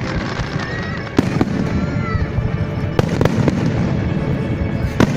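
Fireworks going off: about four sharp bangs over a dense, continuous rumble of bursts, the loudest bang near the end.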